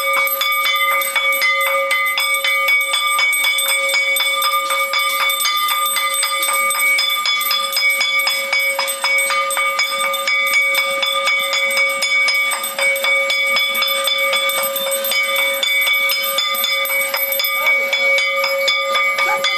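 A bell (ghanti) rung rapidly and without pause, its clapper striking many times a second so that several ringing tones hang on steadily.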